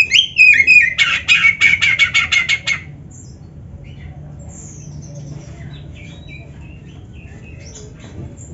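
Oriental magpie-robin (kacer) singing: a loud burst of gliding whistled notes, then a fast trill of repeated notes, about seven a second, that stops about three seconds in. Faint scattered chirps follow.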